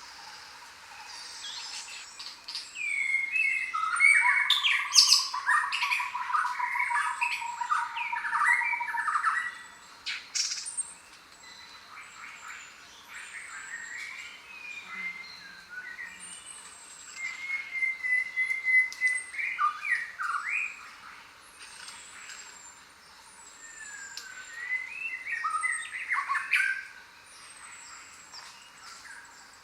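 Mixed chorus of jungle birds calling and singing, with thin high chirps repeating throughout. Louder bursts of overlapping calls and squawks come about four seconds in, again near the middle and once more near the end.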